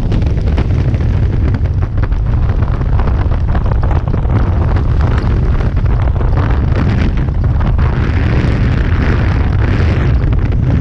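Strong wind buffeting the microphone: a loud, steady rush with a heavy low rumble and no breaks.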